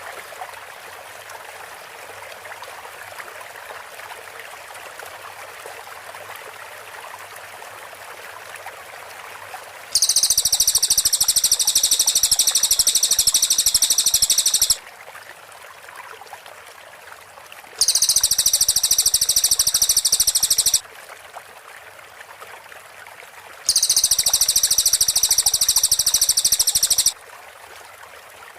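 Cililin songbird singing three loud bursts of rapid, tightly packed high-pitched notes (the close 'shot' style of song), each lasting three to five seconds, over a steady background hiss like running water.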